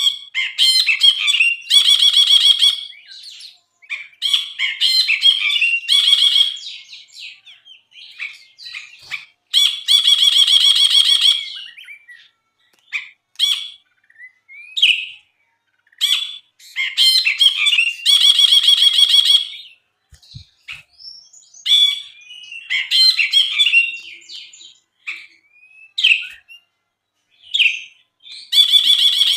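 Brinji bulbul singing: loud, rapid, chattering phrases of a second or two, repeated every few seconds, with shorter whistled call notes between them.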